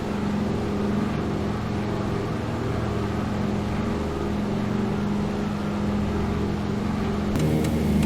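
Steady drone of a Douglas DC-3's twin piston engines and propellers, heard from inside the cabin. The pitch of the drone shifts near the end.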